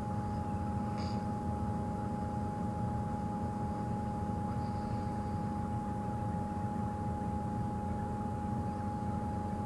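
Game-drive vehicle's engine running steadily: a constant low rumble with an unbroken high whine over it.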